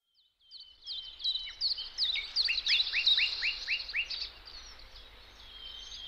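Birdsong: a stream of quick, high chirps and trills fading in at the start, with a run of about six rapid sliding notes in the middle.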